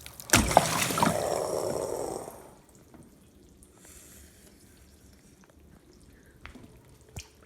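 Water splashing and pouring for about two seconds, starting with a sudden knock and then fading away, followed by a few faint clicks.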